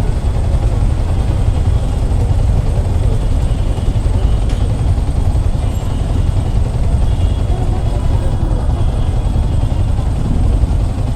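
Road traffic noise heard from a motorcycle, a steady heavy low rumble of engines and mic buffeting, with faint higher tones in the second half.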